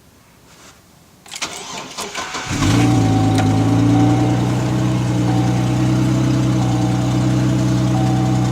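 A 2005 Chevrolet Trailblazer's 4.2-litre straight-six Vortec is cold-started: the starter cranks for about a second, then the engine catches about two and a half seconds in. It settles into a steady cold idle with a loud exhaust.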